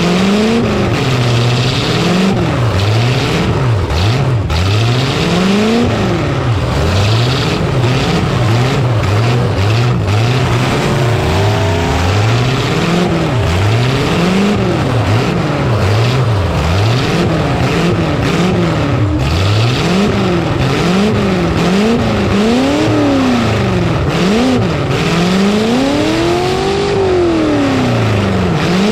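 Demolition derby truck engines revving up and down over and over, under a constant din of running engines, with scattered bangs.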